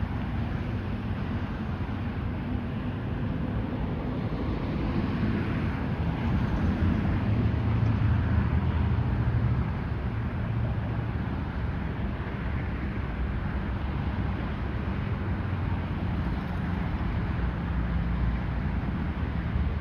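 Boeing 777-200ER's Rolls-Royce Trent 895 jet engines running at low taxi power: a steady rumble that swells for a few seconds around the middle.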